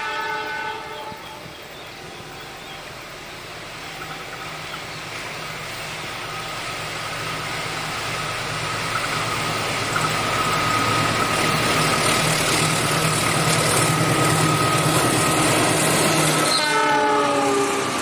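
A diesel locomotive hauling a container freight train sounds its horn briefly at the start. The engine and wheels then grow steadily louder as the train approaches, with a steady high whine from about halfway. Near the end the horn blows again as the locomotive passes, its pitch dropping.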